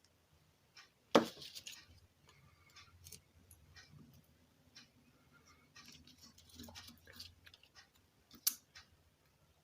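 Light clicks and taps of small tools and parts being handled on a workbench, with a sharp knock about a second in and another near the end.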